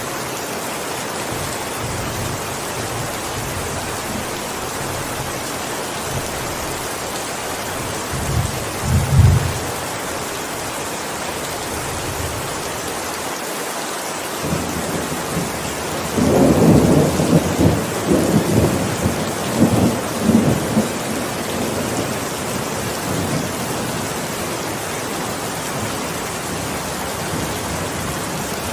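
Heavy rain falling steadily, with thunder rumbling twice: a short roll about eight seconds in and a longer, louder rolling peal from about sixteen to twenty-one seconds.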